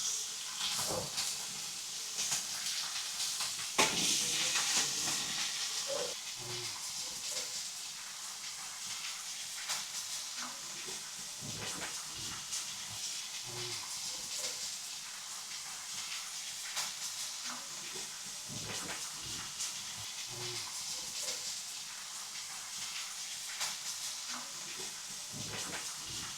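Meat and vegetables sizzling on a marble slab heated over a wood fire in a fireplace, as a steady hiss with many small crackles. The sizzling surges louder about four seconds in.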